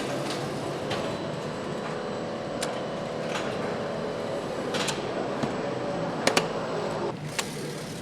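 Factory floor noise: a steady machinery hum with sharp metallic clicks and knocks every second or two, including a quick double knock near the end.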